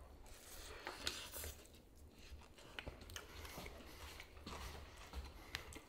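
Faint biting and chewing of a fish sandwich on a bun, with scattered small crunches and clicks.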